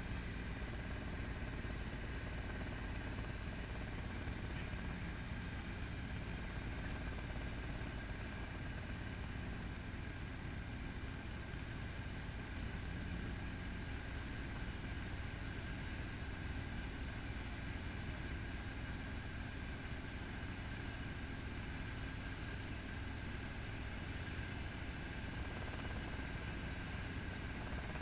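Steady helicopter engine and rotor noise, heaviest in the low end, with a faint steady whine over it.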